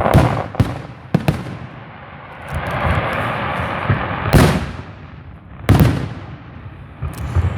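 Fireworks bursting: a quick run of bangs in the first second or so, then two louder booms about four and a half and six seconds in, each trailing off slowly, with a stretch of hissing noise between them.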